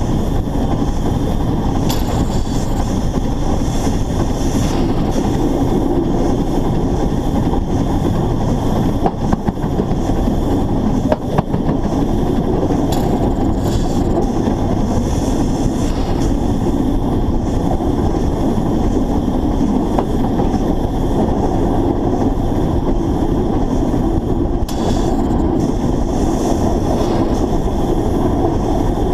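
Narrow-gauge steam locomotive running along the line, heard close up from a camera mounted on the engine: a steady, loud rumble of running gear and wheels on the track, with a few faint clicks over rail joints.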